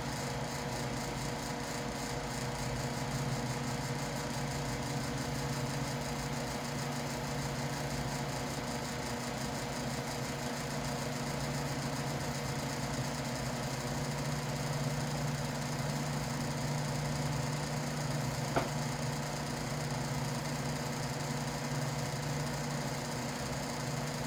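Steady mechanical hum of a noisy workshop fan, with a single sharp click about eighteen seconds in.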